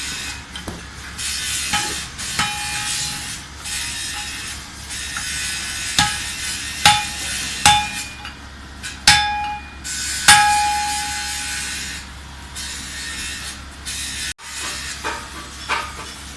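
Hammer blows on metal, irregular and spaced apart. The five loudest, between about six and ten and a half seconds in, each ring briefly after the strike. There is an abrupt cut near the end, and more strikes follow it.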